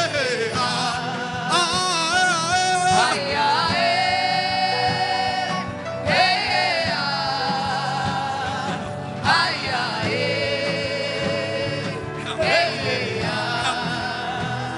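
Gospel worship singing: voices hold long, wavering notes in slow phrases without clear words, over a steady instrumental backing.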